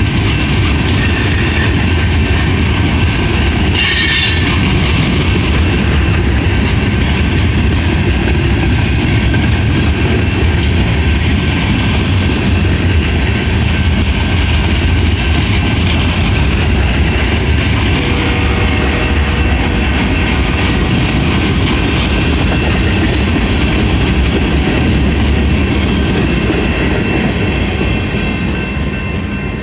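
Freight train's open-top hopper and gondola cars rolling past at a grade crossing, wheels clickety-clacking over the rail joints over a steady low rumble. The sound fades near the end as the last car clears the crossing.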